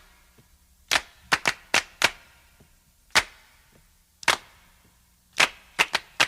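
Handclaps alone, sharp and dry, in a sparse syncopated pattern of single claps and quick runs of two to four. This is the solo clap intro of a 1970s disco record, before the band comes in.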